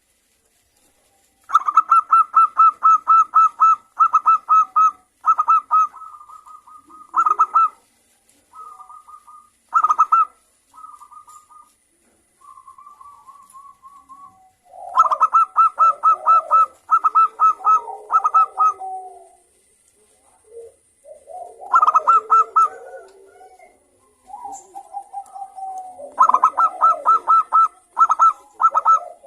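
Zebra doves (local perkutut) calling back and forth. There are runs of rapid, staccato high coos, some drawn out into quick trills, interleaved with lower, softer coos, beginning after about a second and a half of silence.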